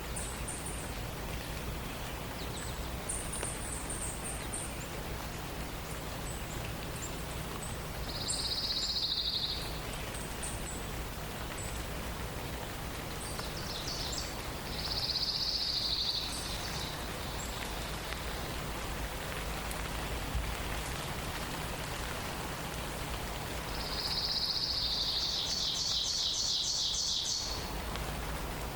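Songbirds singing: a high, buzzy song comes three times, the last one ending in a rapid trill, with scattered very high chips from other birds. Underneath is a steady hiss.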